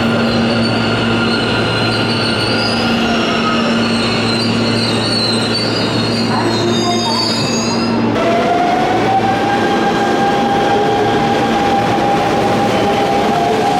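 Hanshin Main Line electric train at the platform, its wheels squealing in high wavering tones over a steady low motor hum. About eight seconds in the sound changes abruptly to another train with a steady, slightly rising whine.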